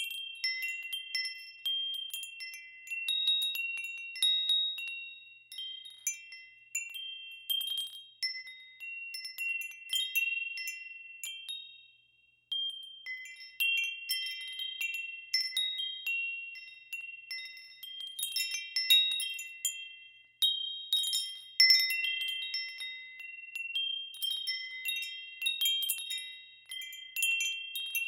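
Wind chimes ringing in irregular clusters of clear, high tones that ring out and fade, with brief lulls about twelve and twenty seconds in.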